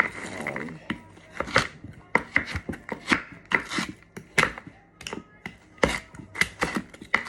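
Knife chopping frozen mixed vegetables finely, in uneven sharp strokes about two a second.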